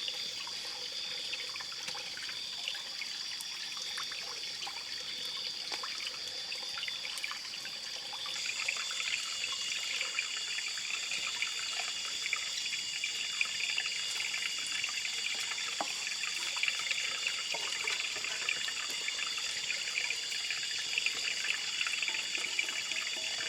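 Forest ambience of trickling water with a steady high-pitched buzzing drone that gets louder about eight seconds in, and scattered faint clicks.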